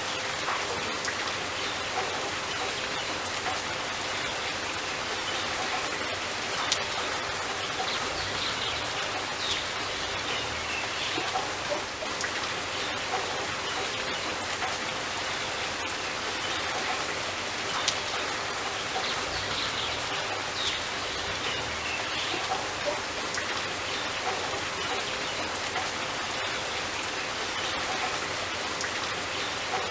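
Steady rain falling, an even hiss with individual drops ticking, two of them sharper about seven and eighteen seconds in.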